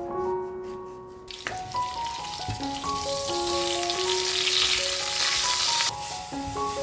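Food sizzling in a frying pan. It starts abruptly about a second in and cuts off near the end, over soft melodic background music.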